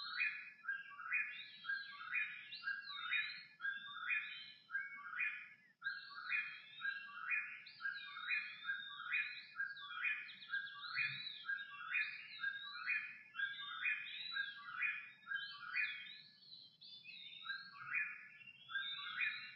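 Pre-dawn bird chorus: one bird repeats a short song phrase over and over, about one and a half a second, while other birds sing higher whistled, sliding phrases above it. The repeated phrase breaks off briefly about six seconds in and again near eighteen seconds.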